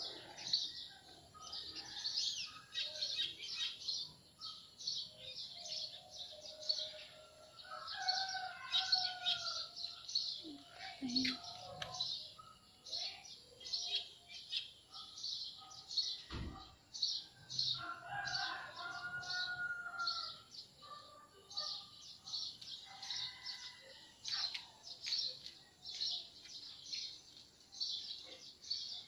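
Small birds chirping continuously in quick, repeated high-pitched chirps, with a few lower, longer calls now and then.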